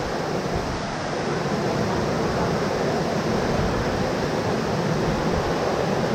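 Heavy rain falling: a steady, dense rushing noise.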